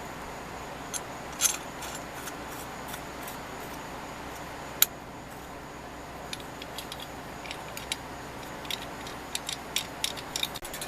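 Light metal clicks and clinks of small tool parts being handled, scattered and irregular, with a sharper click about a second and a half in, another near the middle, and a quick run of clicks near the end, over a steady hiss.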